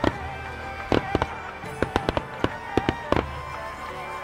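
Fireworks display bursting: a rapid series of about a dozen sharp bangs, bunching into a burst of crackles near the end, with music playing alongside.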